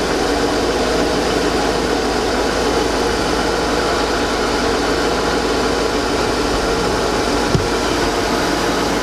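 The 2002 Chevy Avalanche's 5.3-litre V8 idling steadily under an even hiss of noise, with one light knock about seven and a half seconds in.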